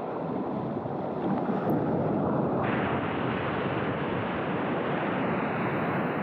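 Steady rush of ocean surf and water, with wind buffeting the microphone; the noise turns brighter and fuller about two and a half seconds in.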